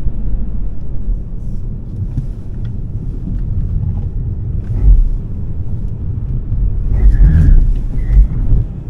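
Low rumble of road and wind noise from a Smart #3 electric car being driven, with no engine note, and louder surges about five seconds in and again near the end.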